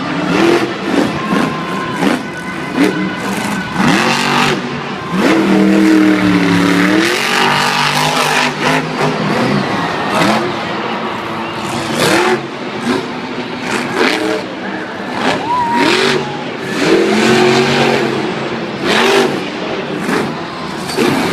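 Monster truck engine revving hard again and again, its pitch swinging up and down, with frequent short, sharp bangs.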